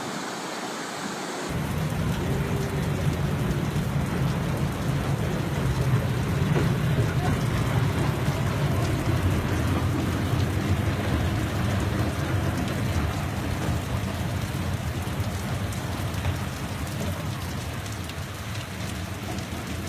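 Heavy rain pouring down, a steady hiss with a deep rumble underneath, starting suddenly about a second and a half in.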